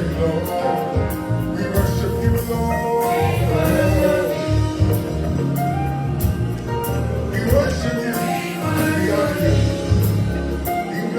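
Gospel choir singing a worship song over a live band, with steady bass and drums.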